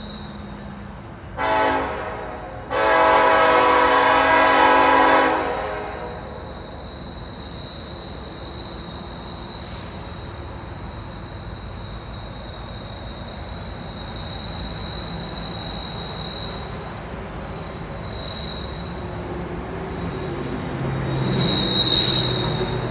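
BNSF diesel locomotive's air horn sounding a short blast and then a long one, followed by the rumble of the approaching loaded coal train, which grows louder near the end, with a thin, steady high wheel squeal.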